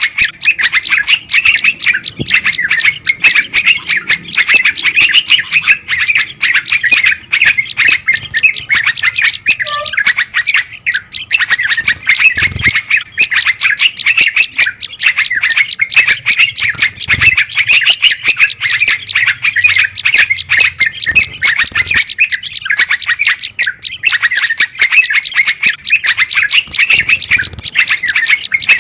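Bird-lure recording of agitated small songbirds: a dense, unbroken racket of rapid, high chirps and chatter, many calls a second, at a steady loud level. It is the alarm-type 'noisy' chatter played to draw wild bulbuls and tailorbirds in.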